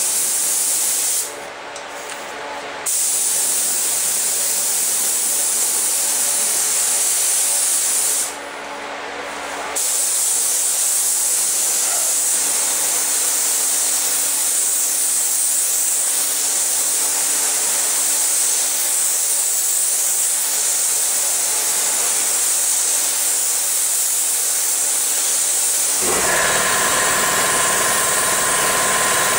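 Air spray gun at about 20 PSI hissing steadily as paint is sprayed, cut off twice briefly when the trigger is let go. Near the end a motor starts running underneath the hiss.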